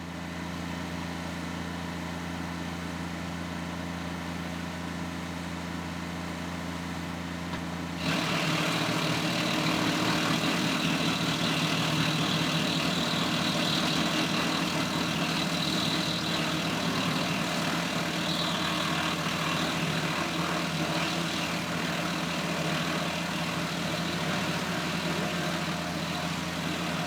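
Tractor engine running steadily while driving a Woodland Mills WC46 PTO wood chipper. About eight seconds in, the sound steps up louder, with a broad rushing noise added over the steady hum.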